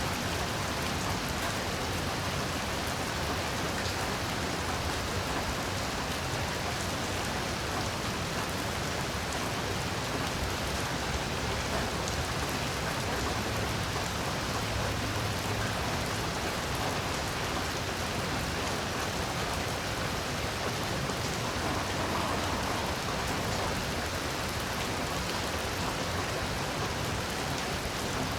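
Heavy rain falling steadily, a dense even hiss of drops on surfaces with no change in intensity.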